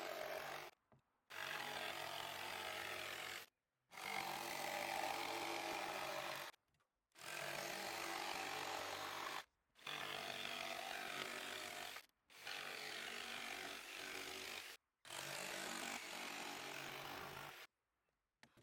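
Electric jigsaw cutting through wood with its motor running steadily, in about seven stretches of two to three seconds each, each one breaking off abruptly.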